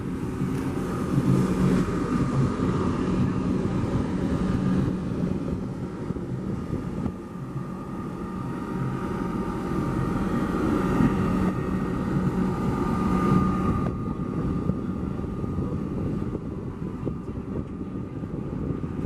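Tour boat's engine running steadily under way, a low drone with a faint higher whine.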